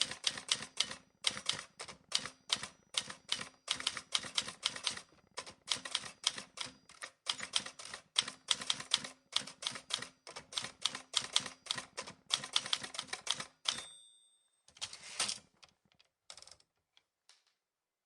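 Rapid runs of sharp keystroke clicks, typing in bursts. Near the end they stop for a short ringing tone, then a brief rattling burst and a few scattered clicks.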